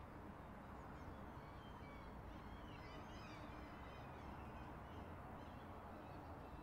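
Faint background ambience with small birds chirping in the distance, busiest around the middle.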